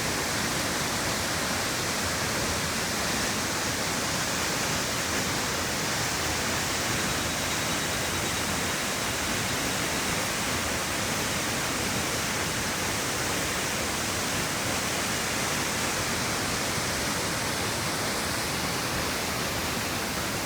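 Steady, unbroken rush of a 25-metre waterfall.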